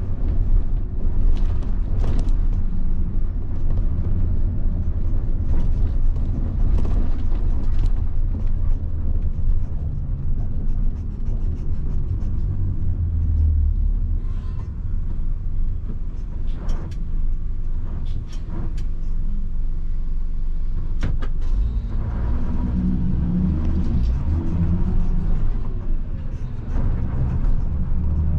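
1990 Mitsubishi Fuso bus's 7.5-litre diesel engine running while the bus is driven: a steady low rumble with scattered sharp clicks and rattles. The engine note rises and falls over the last few seconds.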